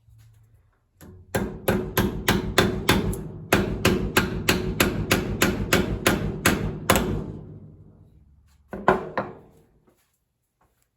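Rapid hammer blows on metal, about five a second, each with a brief ringing tone. There is a short pause about two seconds in, then a long run of blows, and a final couple of strikes near the end.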